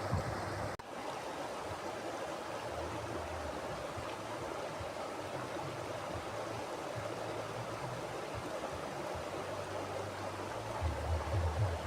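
Mountain river flowing over rocks: steady rushing water, with an intermittent low rumble that grows stronger near the end. The sound drops out for an instant just under a second in.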